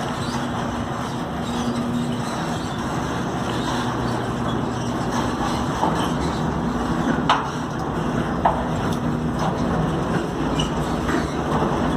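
Electric gate opener motor running, a steady hum with a grinding mechanical noise, and two sharp clicks partway through.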